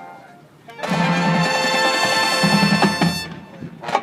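Marching band's brass section entering loudly about a second in with a sustained chord, held for a couple of seconds and then released, after a soft opening; drum hits come in right at the end.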